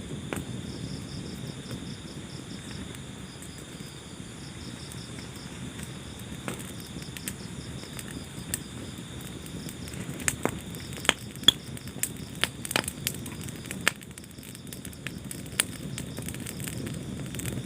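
Wood fire burning with a low steady rush and scattered sharp crackles and pops, several louder pops coming in quick succession about ten to thirteen seconds in. Crickets chirp in a steady pulsing rhythm behind it.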